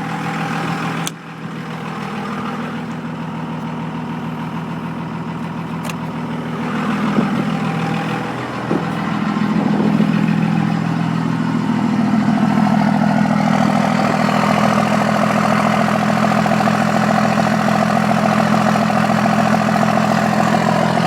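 2002 Dodge Ram's 5.9-litre Cummins inline-six turbo diesel idling steadily just after a cold start. A click comes about a second in, and from about ten seconds in a rushing sound of the cab heater fan builds up and then holds.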